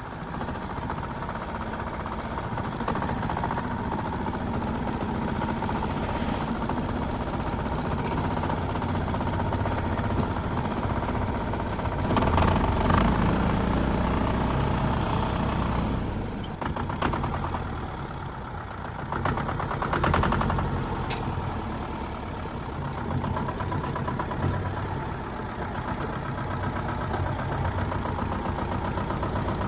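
Backhoe loader's diesel engine running steadily, working harder and louder twice: about twelve seconds in for a few seconds, and again briefly about twenty seconds in.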